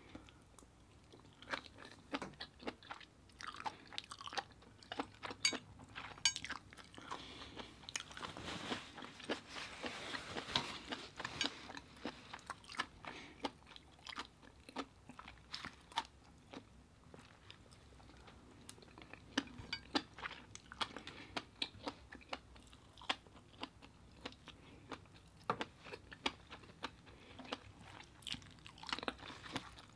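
Close-miked chewing of skewered baby octopus dipped in orange fish roe: steady mouth sounds with many short crunchy clicks, busiest around a third of the way in.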